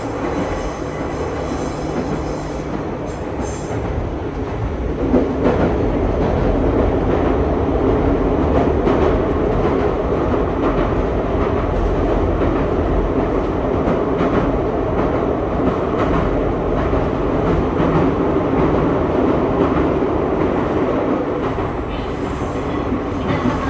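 Nankai 2200-series train running along the line, heard from inside the passenger car: a steady rumble of wheels on rail that grows louder about five seconds in and then holds, with a brief faint high squeal early on.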